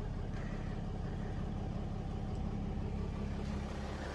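RV engine running steadily at low revs while the rig reverses slowly.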